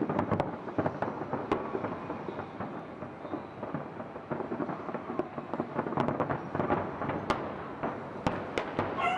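Fireworks display going off continuously: a steady rumble of many overlapping bursts, with sharp cracks standing out now and then, the loudest a little before the end.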